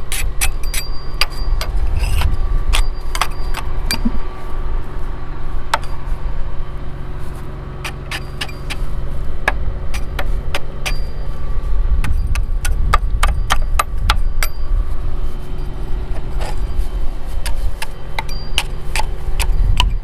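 Hand scraper scraping and knocking caked dirt off the metal of a row-crop hiller, in many irregular sharp scrapes and clanks. A steady low engine hum runs underneath.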